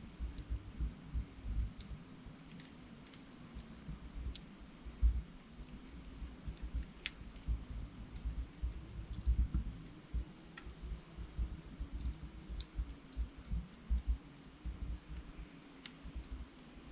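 Wood fire of burning logs crackling in a fireplace, with irregular sharp pops and snaps over a low, fluttering rumble of the flames.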